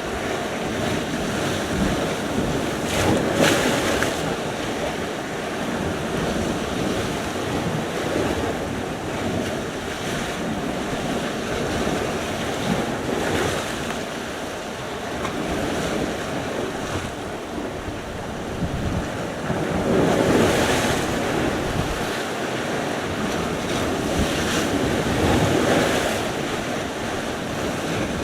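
Sea surf: waves breaking and washing in, one after another, in swells every few seconds. Wind buffets the microphone throughout.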